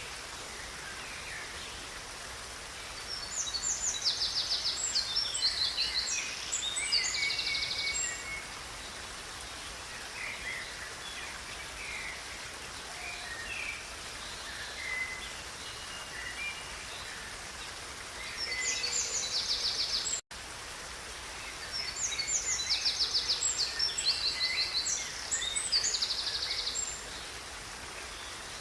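A river's steady rush of water with a songbird singing long bursts of rapid, high trills three times, about 3 s in, about 18 s in and about 21 s in, with softer scattered chirps between. The sound cuts out for an instant about 20 s in.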